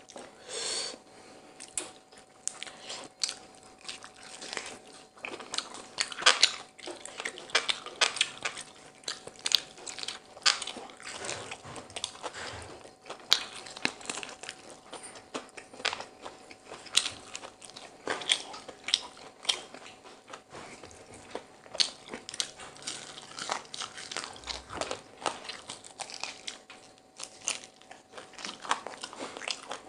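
Close-miked eating of fried whole chicken and biryani rice: steady chewing and biting with many sharp wet mouth clicks and crunches.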